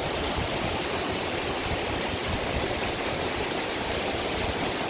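Fast-running mountain stream rushing over rocks, a steady loud rush of water with some wind on the microphone.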